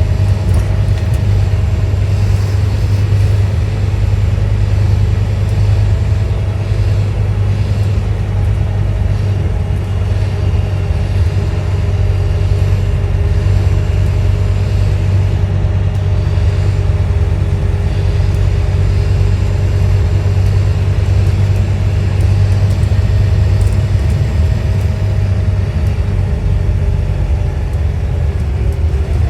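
Scania N230UD OmniDekka double-decker bus under way, its five-cylinder diesel engine running steadily with a deep, constant rumble and a faint steady whine above it.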